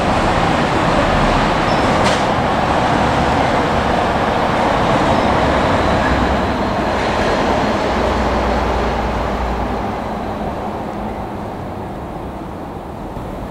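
A two-car 115-series electric train running on the rails: a steady rumble that fades away gradually over the last few seconds.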